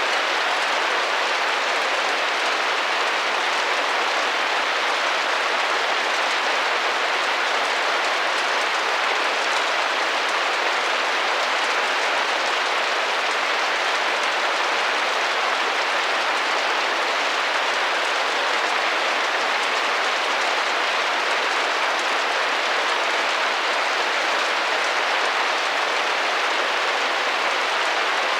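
Steady rain pattering on window glass, an even hiss of many small drops.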